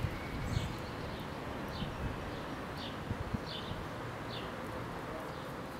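A small bird chirping repeatedly, short high chirps roughly once a second, over a steady background hiss and low rumble.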